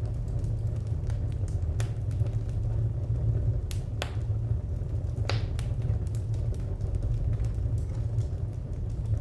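Wood fire crackling: scattered sharp pops over a steady low rumble, with two louder pops about four and five seconds in.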